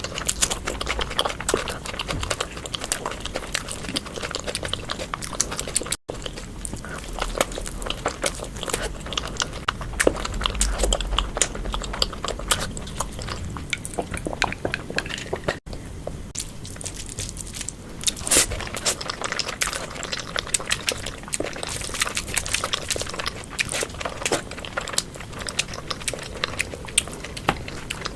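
Close-miked eating sounds: a person chewing and biting spicy Indian food, with a dense run of short wet clicks and smacks. The sound cuts out for an instant twice, about six and about fifteen seconds in.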